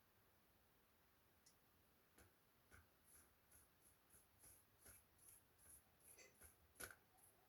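Faint, quick clicks and light scratching, two to three a second, from small-parts handwork on an opened laptop. The loudest click comes near seven seconds in.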